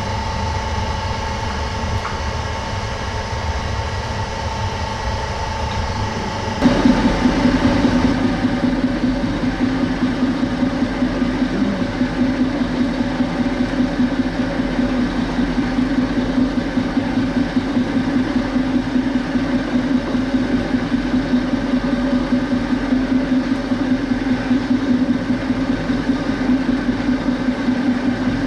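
Metal lathe running with a fly cutter turning in the chuck. About six and a half seconds in, the sound jumps louder and becomes a fast, rough pulsing as the cutter starts a facing pass across the workpiece clamped in the tool post.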